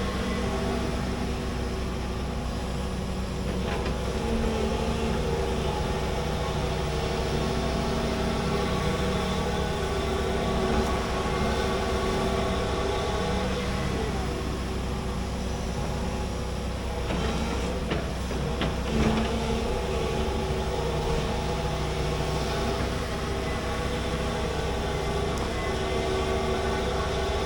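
Large excavator's diesel engine running steadily under load while digging, with pitched tones that come and go over it and a few clanks about two-thirds of the way in.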